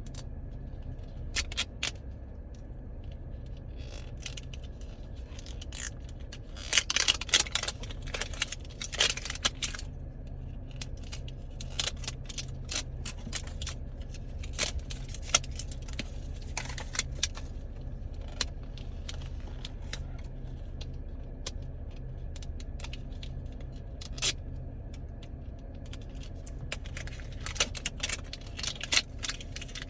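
Hands working at a hard-to-open Mini Brands plastic capsule and its wrapping: irregular bursts of clicking, crinkling and rattling of small plastic pieces, busiest about a third of the way in and near the end, over a steady low hum.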